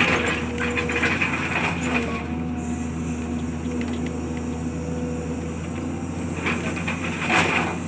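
A heavy machine's engine running steadily on a demolition job, with debris crunching and clattering during the first two seconds and again briefly near the end.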